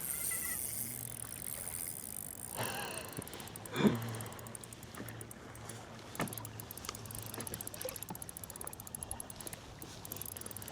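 Water and wind around a fishing kayak on rough water, with a steady low hum underneath. A short, loud knock or splash comes about four seconds in, and a smaller click about two seconds later.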